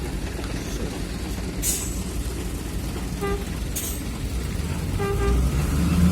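Heavy diesel machinery running with a steady rumble, with short horn toots about three seconds in and twice more just after five seconds, and brief hisses about two and four seconds in. The engine grows louder near the end.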